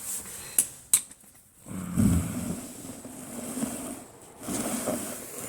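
Two sharp metallic clinks about half a second apart, then a rough, rasping sound lasting about three seconds, as hand tools work on rear suspension bolts.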